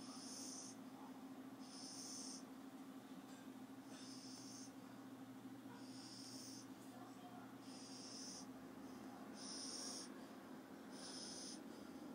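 Sleeping puppy snoring, with a soft hissing breath about every one and a half to two seconds, seven in all, over a steady low hum.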